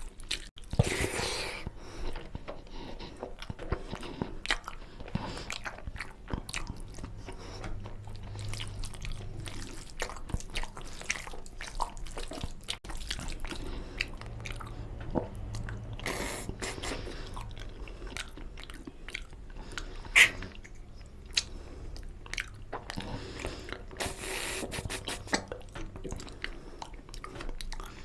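Close-up eating sounds of mutton curry and rice: wet chewing and smacking with many small mouth clicks, a few longer noisy stretches, and one sharp louder click about twenty seconds in.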